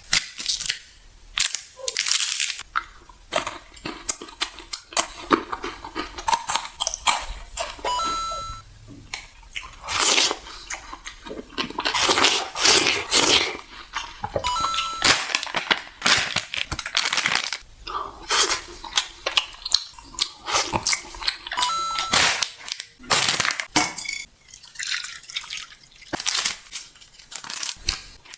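Close-miked eating sounds: crunching bites and wet mouth clicks, coming in quick irregular bursts. A short high electronic beep sounds about every seven seconds, near the start, about eight seconds in, about fifteen seconds in and about twenty-two seconds in.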